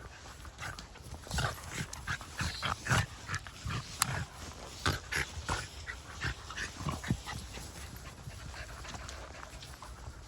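Two small dogs play-fighting, making irregular snorting noises in quick bursts with no real barking: the sound of play, not a real fight. The bursts thin out near the end.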